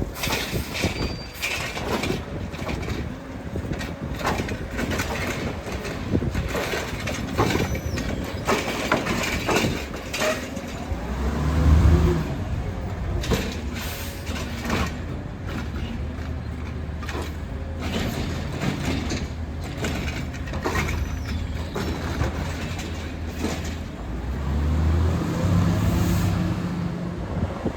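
Heil Rapid Rail automated side-loader garbage truck at work: a string of clanks and knocks in the first half, then the engine revs up about twelve seconds in, settles to a steady low hum, and revs up again near the end.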